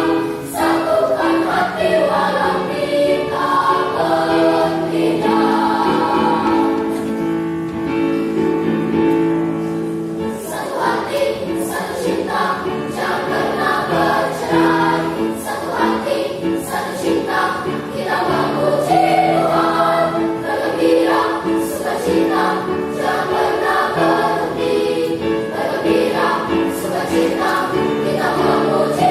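Children's and youth church choir singing in several parts, holding chords that move together.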